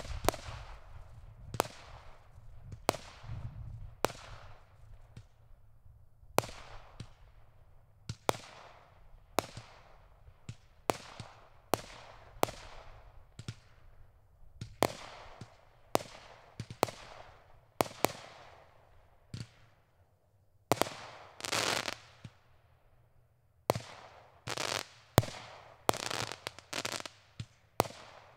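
A 36-shot fireworks cake firing shot after shot, about one sharp bang a second, each followed by a fading hiss. In the last third the shots come faster, with longer stretches of crackling.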